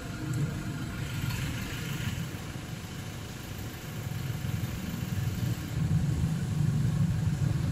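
A motor vehicle's engine idling, a steady low rumble that grows louder in the second half.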